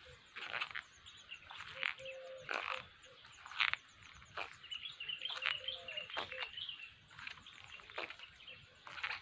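Outdoor animal calls: a series of short, sharp calls about once a second, with a bird chirping briefly around the middle over a faint, high, rapid ticking.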